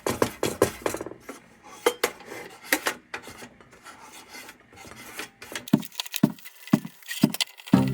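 Steel wool scrubbing the tin of a 1945 Dietz No. 2 Blizzard lantern by hand, in quick irregular rasping strokes that slow to a few spaced strokes near the end, as rust and grime come off the metal.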